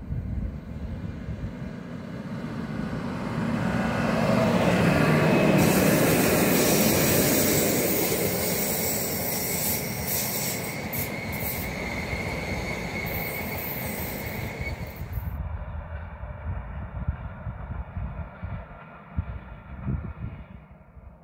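Rhaetian Railway Bernina Express electric passenger train approaching and passing close by, wheels running on the rails with a high squeal, loudest about five seconds in. The train sound cuts off suddenly about fifteen seconds in, leaving only a low rumble.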